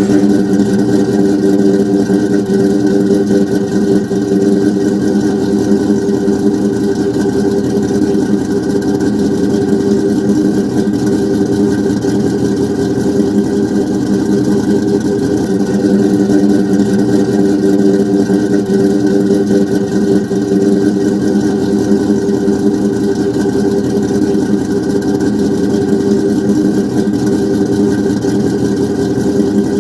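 Cammed Ford 4.6-litre V8 in a Mustang running steadily at idle, loud, through Flowmaster mufflers and an X-pipe exhaust.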